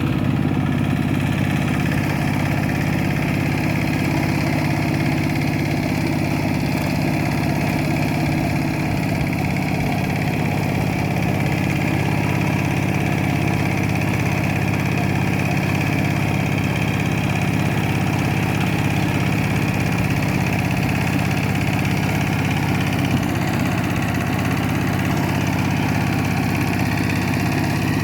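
Kubota K700 tractor engine running steadily at an even speed.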